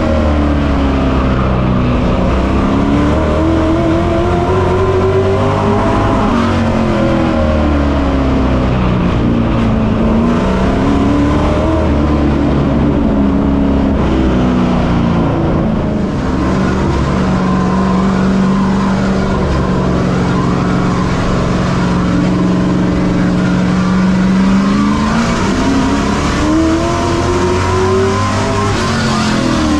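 Race truck engine heard on board at racing speed, its pitch rising and falling several times as it accelerates and lifts, with a longer steady stretch past the middle.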